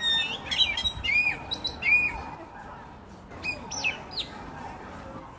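A songbird calling: a quick run of short whistled chirps with bends in pitch, a brief pause, then three sharp falling notes near the end.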